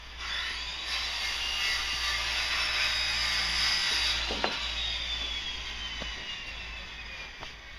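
Power drill spinning up, then running with its whine slowly dropping in pitch as it bites into wood, with a sharp knock about four and a half seconds in.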